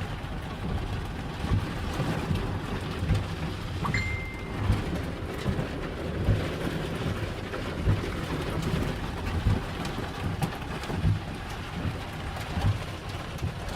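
Hail and heavy rain pelting a vehicle: a steady hiss of rain with irregular low thuds as hailstones strike.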